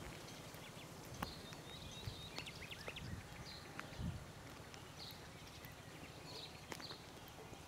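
Faint outdoor ambience of small birds chirping, short high calls every second or so, with a few sharp clicks.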